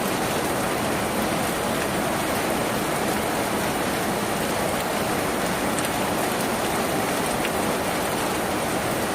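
Steady heavy rain drumming on a tin roof, an even, unbroken hiss of many drops with no single louder impacts.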